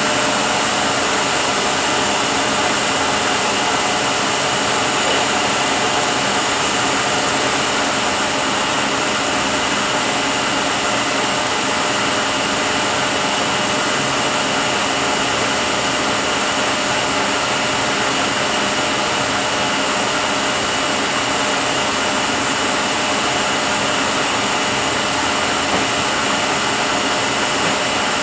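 Rebuilt Eaton Fuller RTLO-18913A 13-speed truck transmission running on a test dyno: a steady whir with several steady whining tones from the gears, unchanging throughout.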